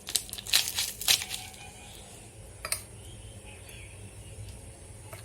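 A few sharp metallic clinks and clatters in the first second and a half, and one more near three seconds in, over a low steady hum: a utensil against a kadai in which sweet corn is boiling.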